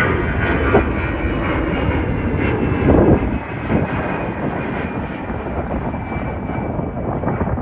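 Jet airliner passing close: a loud, steady rush of jet engine noise with a faint high whine, easing slightly about halfway through.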